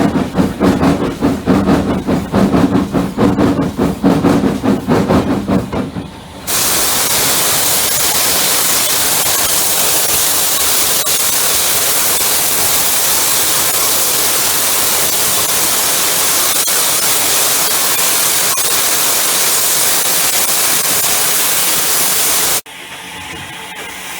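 Steam locomotive, the Hunslet 0-6-0 saddle tank, working with a fast rhythmic beat. About six seconds in this gives way to a loud, steady hiss of escaping steam, which cuts off suddenly near the end.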